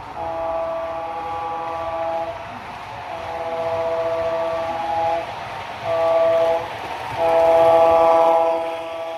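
Train horn sounding the grade-crossing signal: two long blasts, a short one and a final long one, each a chord of several steady tones.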